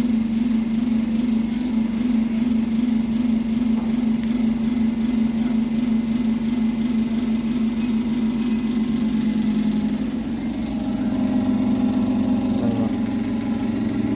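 Hydraulic machinery running with a steady low hum; about ten seconds in, the hum steps up slightly in pitch.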